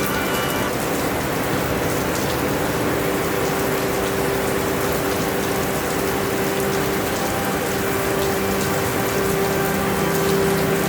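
Steady rainfall, a continuous even hiss with faint scattered drop ticks, over a steady low hum.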